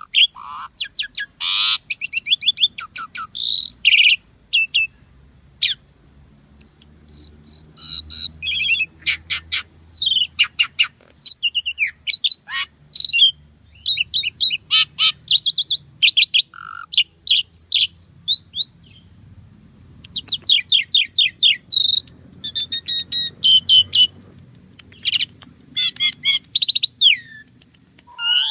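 Asian pied starling (jalak suren) singing a fast, varied song of short whistles, chattering notes and clicks, delivered in rapid bursts with brief pauses.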